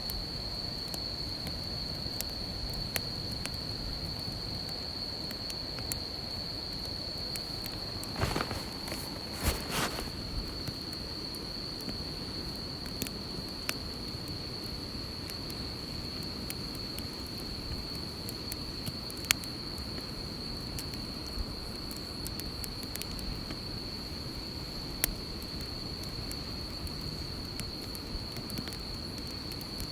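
Insects trilling on one steady high note, with the scattered pops and crackles of a campfire. A few louder knocks come about eight to ten seconds in.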